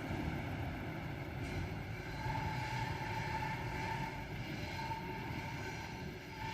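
TEM2 diesel shunting locomotive running light, its six-cylinder PD1M diesel giving a steady rumble. A thin high tone comes and goes over it from about two seconds in.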